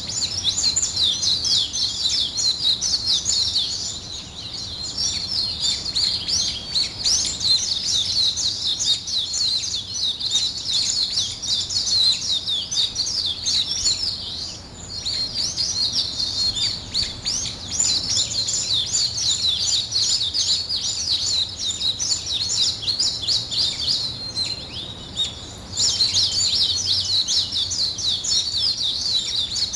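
Small songbirds chirping and twittering in a dense chorus of quick, high-pitched notes. It thins briefly about halfway through and grows louder again near the end.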